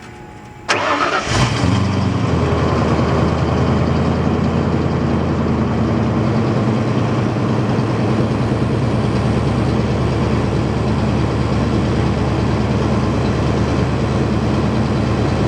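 A 1995 Ford F-150's 302 V8 starts about a second in, catching quickly, then idles steadily, settling a little lower after a couple of seconds. It is the first start on a freshly replaced in-tank fuel pump, which is feeding the engine properly.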